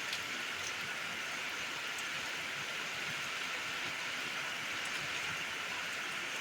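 Steady rain falling, an even hiss with the odd drop ticking.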